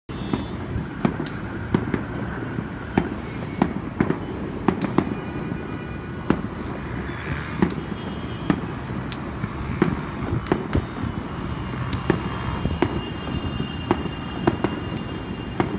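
Distant fireworks bursting over a city: sharp bangs at irregular intervals, about one a second, over a steady low background din.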